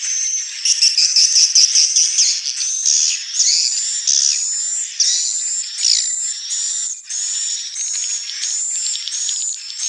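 Swiftlets calling: high, fast twittering chirps and trills. They are dense and overlapping for the first few seconds, then settle into evenly spaced chirps, about one and a half per second.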